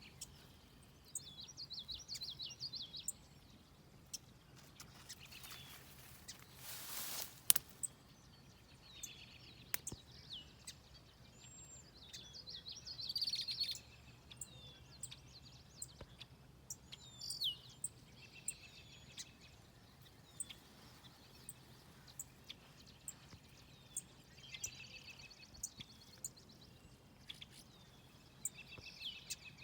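Wild birds singing in short warbling phrases, one after another, over faint steady background noise. A brief whoosh of noise comes about seven seconds in, and small sharp clicks are scattered throughout.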